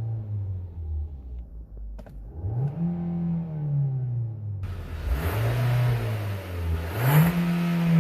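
2019 Hyundai Tucson's 2.0L Nu four-cylinder engine being revved up and down, about four blips of rising and falling pitch. A steady hiss joins suddenly about halfway through.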